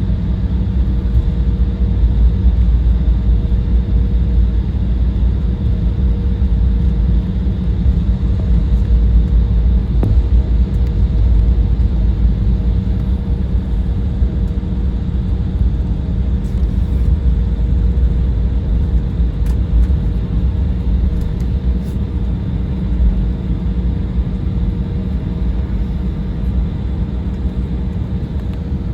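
Cabin noise of an Embraer 175 airliner: its twin General Electric CF34 turbofan engines and airflow give a steady, loud rumble with a steady whine, easing slightly near the end.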